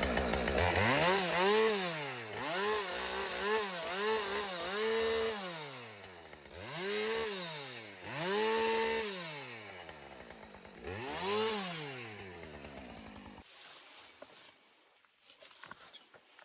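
Chainsaw revving up and down over and over while cutting up felled branches, then stopping suddenly near the end.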